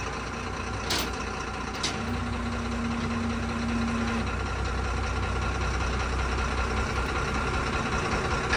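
A heavy equipment engine idles steadily. There are a couple of light clicks early on, and a thin steady whine runs for about two seconds near the middle.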